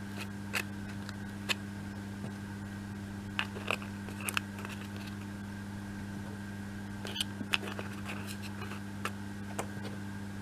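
Scattered light clicks and taps, about nine in all, of small laser-cut wooden pieces being set and pressed into place on a model building, over a steady low hum.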